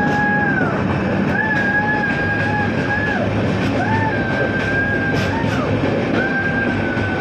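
Running noise of a passenger train, with a steady low hum, overlaid by a held, pitched tone about a second long that repeats roughly every two seconds, each one rising at the start and dropping away at the end.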